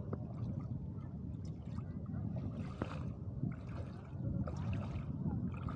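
Sea water lapping and sloshing over a steady low rumble, with brief hissy splashes a few times.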